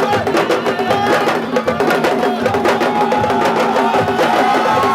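Fast, dense hand-drumming with a voice singing or chanting held notes over it.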